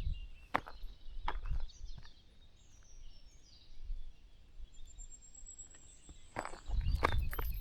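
Footsteps on a country path, with a few sharp steps at the start and more near the end. Between them a small bird chirps briefly with short, high, falling notes. Low rumble on the microphone comes with the later steps.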